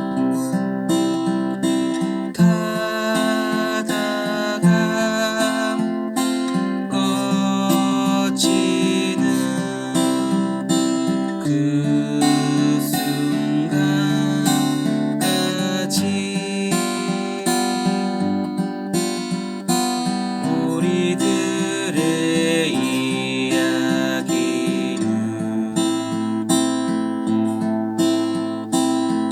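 Acoustic guitar strummed in a steady waltz rhythm, playing the chord accompaniment of a folk song.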